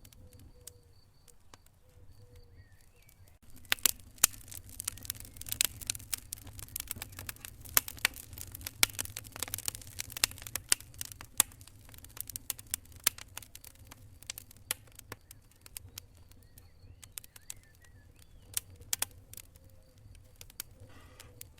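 Wood fire in a fireplace crackling. It is quiet for the first few seconds, then a dense run of sharp pops and snaps starts about three and a half seconds in and thins out over the last several seconds.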